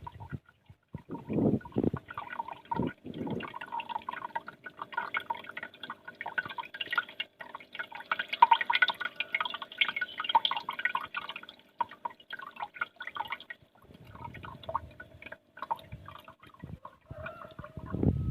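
Water trickling and dripping in a small homemade mini waterfall, a busy patter of little splashes that thins out after about 13 seconds, over a faint steady hum. A couple of low thumps sound in the first few seconds.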